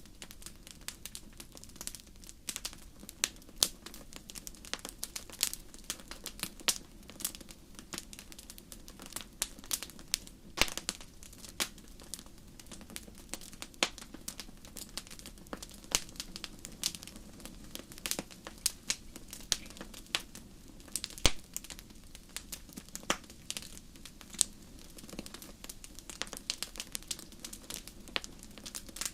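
Wood fire burning in a fireplace: a steady low hiss with frequent irregular crackles and sharp pops.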